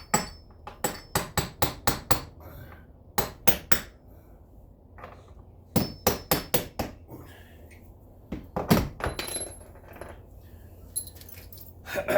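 Hammer tapping a steel punch set under the head of a door hinge pin, driving the pin up out of a hinge that has no hole in the bottom. Quick runs of sharp metal-on-metal taps with short pauses between them, some with a faint ring.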